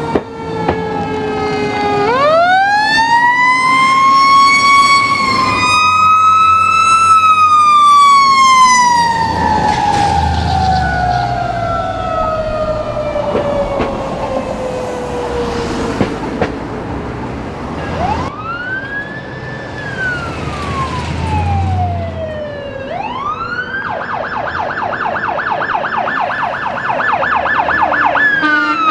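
Emergency vehicle siren wailing in long slow rises and falls, then switching about 24 seconds in to a fast yelp of about five sweeps a second. A vehicle engine rumbles underneath.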